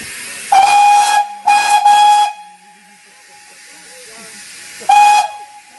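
Steam locomotive whistle blown really loudly three times: two blasts of about a second each close together, then a shorter one near the end, over a steady hiss of steam.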